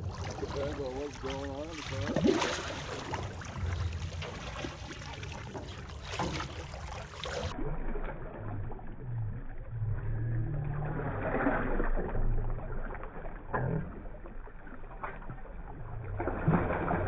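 On-deck ambience of a fishing boat: a steady low engine hum with wind and occasional knocks, and faint distant voices in the first few seconds.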